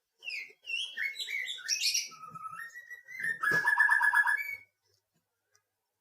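A songbird singing a varied phrase of short whistled notes and chirps that ends in a fast trill about three seconds in.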